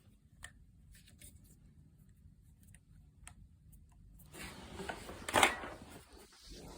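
Handling sounds of a charger plug and cord being unplugged and moved: faint clicks and rustling, with one louder scrape near the end.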